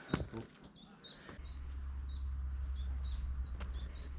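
A small bird calling steadily: short, high chirps that drop in pitch, repeated about two or three times a second. A low rumble on the microphone sets in about a second and a half in and is the loudest sound.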